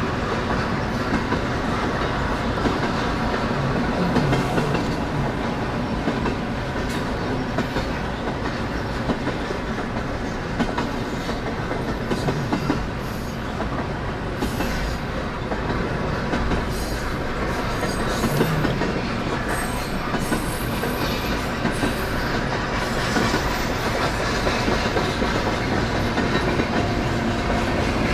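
Freight cars of a Canadian National freight train rolling past: a steady rumble of steel wheels on rail, with rhythmic clicks and clunks at the rail joints and a faint high wheel squeal now and then.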